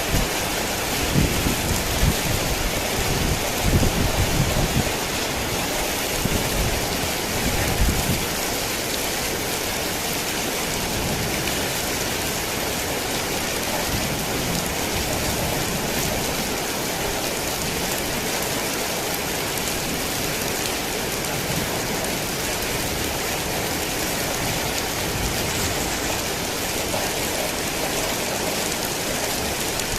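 Heavy rain falling steadily. Low rumbles of thunder come in the first eight seconds or so.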